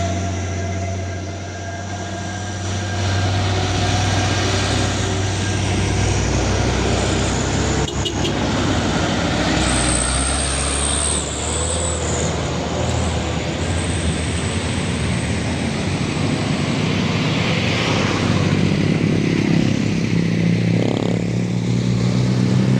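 Heavy truck engines running steadily under load as a loaded palm-oil truck is towed up a steep hill on a rope, with a brief high whine about ten seconds in.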